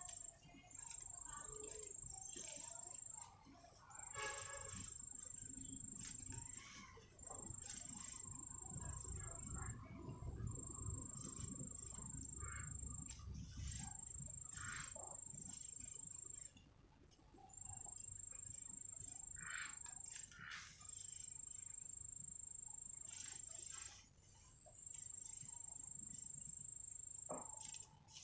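A steady, high-pitched insect trill, cricket-like, comes in stretches of two to three seconds broken by short pauses. Scattered clicks and faint chirps sound over it.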